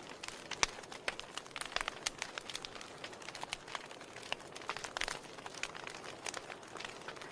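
Wood fire crackling in a fireplace: many sharp, irregular pops and snaps over a soft steady hiss.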